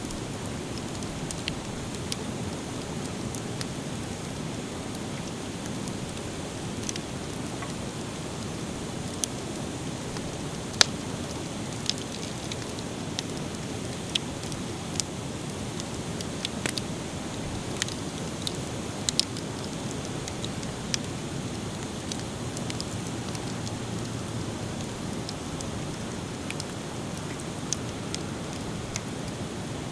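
Driftwood fire burning, with sharp crackles and pops at irregular intervals over a steady low rushing noise.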